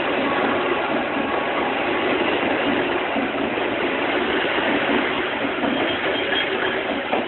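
Passenger train passing, a loud steady noise of its cars rolling on the rails, with a short knock near the end.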